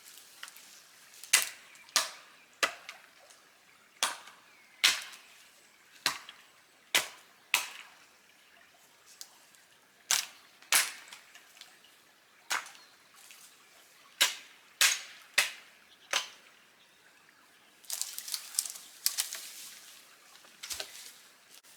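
Dry wood cracking and popping in sharp single snaps at uneven intervals, then a quicker run of crackling near the end.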